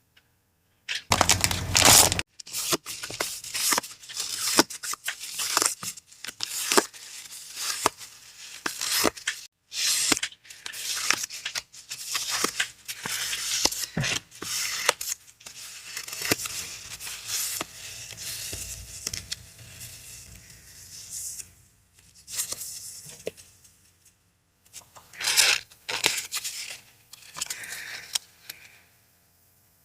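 Paper packaging being handled and torn open, in irregular bursts of paper noise with sharp clicks throughout. The longest and loudest burst comes about a second in, with another near the end.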